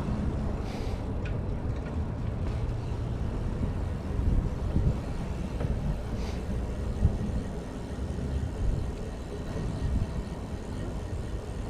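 Steady low rumble of riding noise from a chest-mounted camera on a moving bicycle: wind on the microphone mixed with road noise.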